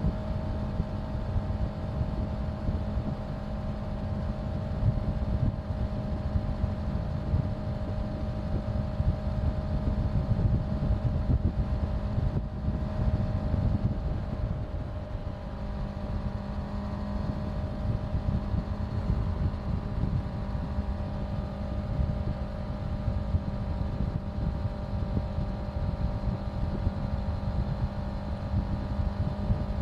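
Honda CBR650F's inline-four engine running at steady cruising revs while riding, over a heavy low wind rumble on the microphone. The engine note and loudness dip briefly around the middle, then pick up again.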